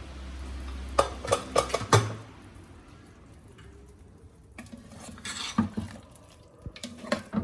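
Steel pressure cooker and its lid clanking as the cooker is opened once the pressure has gone down, with a quick run of sharp metal clanks about a second in. Later come scraping and clinks of a ladle stirring the curry in the pot.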